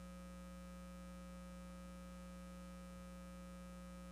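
Faint, steady electrical mains hum, a few constant tones with no change in level.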